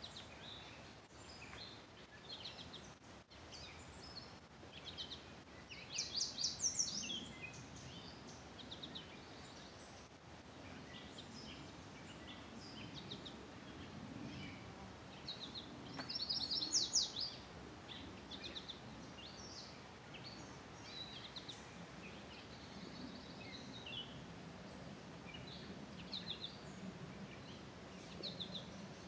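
Wild birds calling and singing, with many short chirps and two louder bursts of rapid chirping about six and sixteen seconds in, over a low steady background rumble.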